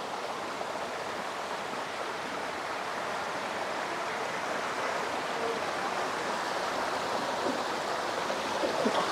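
Steady rush of running water from the creek and the waterfall inside the cave, an even hiss that grows slightly louder.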